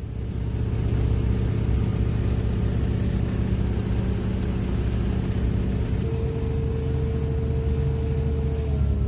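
Passenger train running, heard from inside the carriage: a steady rumble and hum. A faint high whine drops out about six seconds in, where a clearer mid-pitched hum takes over and steps down in pitch near the end.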